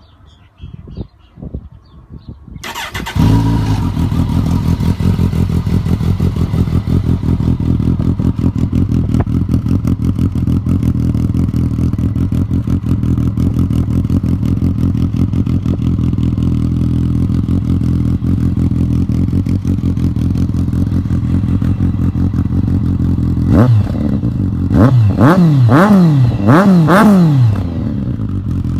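2014 Kawasaki Concours 14's inline-four engine breathing through an aftermarket Delkevic slip-on exhaust. It starts up about three seconds in after a few faint clicks and idles steadily. Near the end it is blipped in about five quick revs, then settles back to idle.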